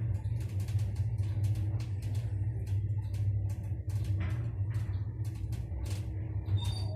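1996 MLZ passenger elevator running: a steady low hum with a string of irregular clicks and knocks, and a couple of short high beeps near the end.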